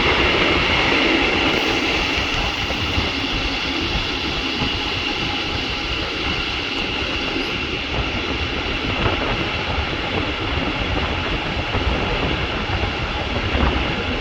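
Regional train running along the line, heard from on board: a steady rolling rumble with a high steady whine and an occasional light knock from the wheels on the track.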